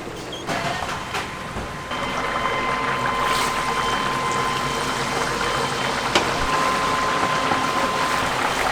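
Chicken deep-frying in hot oil: a dense, crackling sizzle that grows louder about two seconds in and then holds steady, with a faint thin steady whine beneath it.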